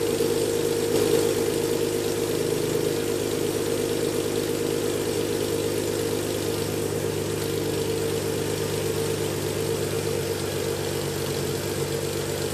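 BMW E46 330Ci's 3.0-litre straight-six idling steadily through a straight-piped exhaust with no catalytic converters and no front or middle silencers, only an Eisenmann Race rear silencer.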